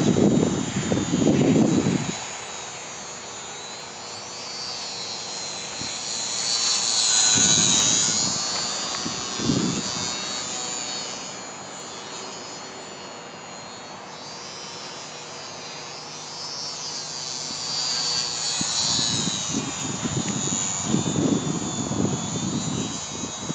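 Electric motor and propeller of a ParkZone Su-26 XP radio-controlled plane whining high, swelling and fading as the plane passes near, twice. Gusts of wind buffet the microphone at the start, about eight seconds in, and again near the end.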